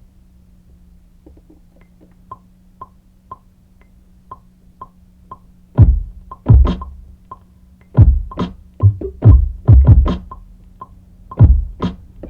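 Electronic drum-machine beat. Light ticking hits come in evenly, about two a second, from a second or so in. About halfway through, heavy kick drums that drop in pitch join in, along with sharp snare and hat hits, over a faint steady low hum.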